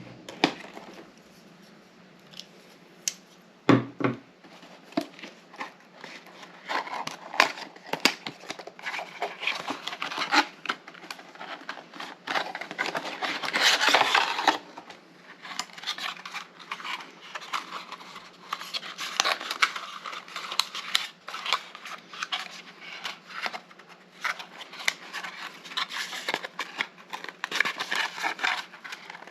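Retail processor box and its packaging being handled and opened by hand: scraping, tearing, crinkling and sharp clicks of cardboard and plastic, with a dull thump about four seconds in and a longer tearing rasp about halfway through.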